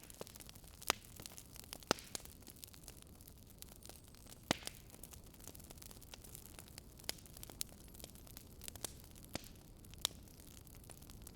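Wood fire crackling: irregular sharp pops and snaps over a soft, low rushing noise, with a few louder pops about a second in, near two seconds, halfway through and near the end.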